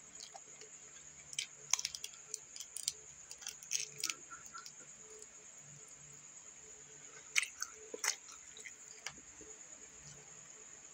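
Chewing crunchy dried fish, heard as crisp crackling crunches. They come in two clusters, from about a second and a half to four seconds in and again around seven and a half to eight seconds in.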